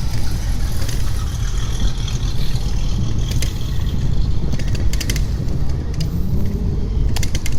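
Steady low rumble of a car engine running, its pitch rising about six seconds in as it revs, with a few sharp clicks.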